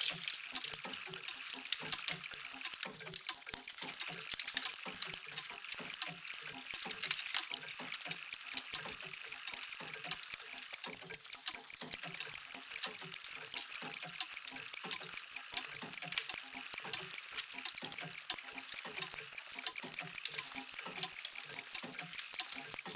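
Many mechanical clocks ticking at once: dense, overlapping ticks, many per second, with softer, lower tocks from larger clocks underneath.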